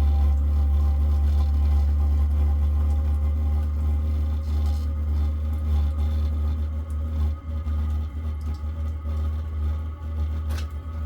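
VEVOR diesel air heater running after a motherboard replacement: a steady low drone from its blower and burner, with several faint steady tones above it, a sign that the heater is working normally.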